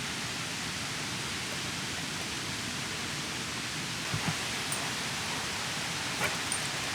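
Steady hiss of rain falling around the camp, with a few faint ticks about four and six seconds in.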